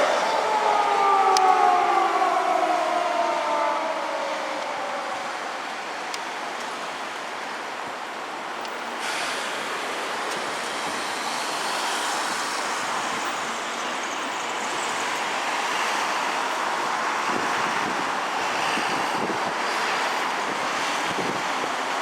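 A Japanese police patrol car's siren winds down over the first few seconds, its wail falling in pitch and fading out. Steady road traffic noise follows.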